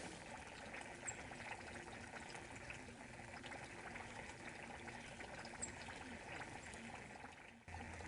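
Sleet falling steadily, a faint hiss with many small ticks of ice pellets striking surfaces; it cuts out briefly near the end and a low hum comes in.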